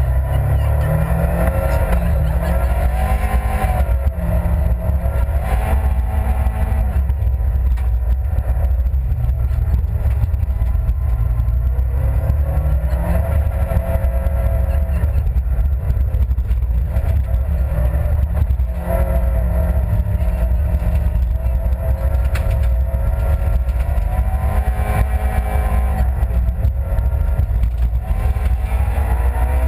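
Honda Civic Type-R Group N rally car's four-cylinder engine heard from inside the cabin, loud and revving up and dropping back repeatedly.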